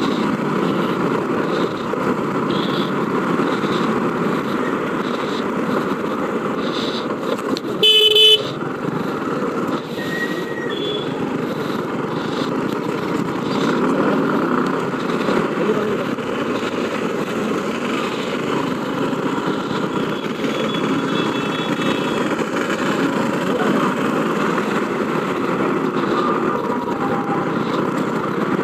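Busy street traffic heard from a moving motorcycle, with steady road and wind noise. A loud vehicle horn blast about eight seconds in is the loudest sound, followed by a short high beep soon after and fainter horn toots later on.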